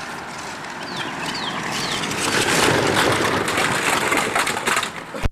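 Model stock cars rolling down a built race track, a clattering rush of small wheels that builds and is loudest in the middle. It ends in a few sharp knocks and then cuts off suddenly.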